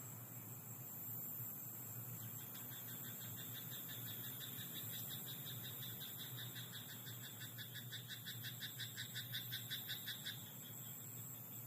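Frog calling in a rice paddy at night: a long train of rapid, evenly repeated croaks that begins about two seconds in, grows louder toward the end and stops about ten seconds in, over a steady high-pitched background hiss.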